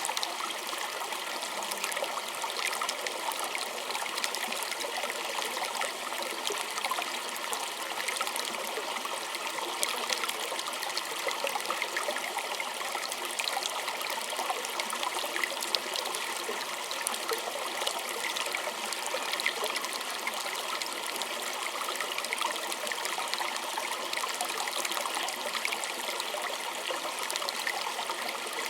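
Small stream trickling steadily, with many fine splashes and no let-up.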